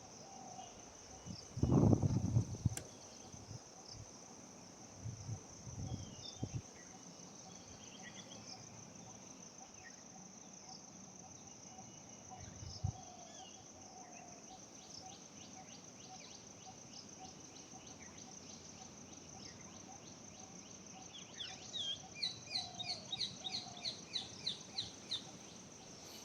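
A steady high insect drone with scattered bird chirps; near the end, a quick series of squeaky, repeated calls, typical of an Indian grey hornbill. A low thump comes about two seconds in.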